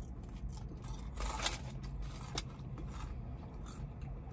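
A person chewing crispy curly fries close to the microphone: a run of small crunches and wet clicks, the loudest about a second and a half in.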